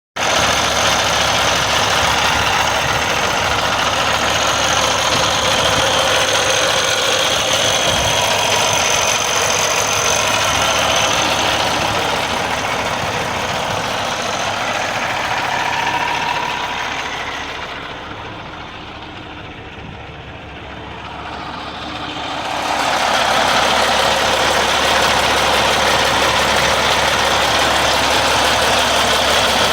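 Kenworth W900L semi-tractor's diesel engine idling steadily. About two-thirds of the way in, the sound fades and turns duller for a few seconds, then comes back to full level.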